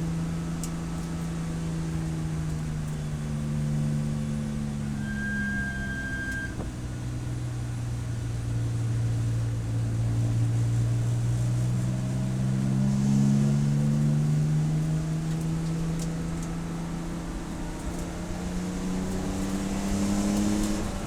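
Race car engine heard onboard. Its pitch falls slowly for several seconds, rises again about ten seconds in, eases, and climbs once more near the end, as the car slows and accelerates through corners.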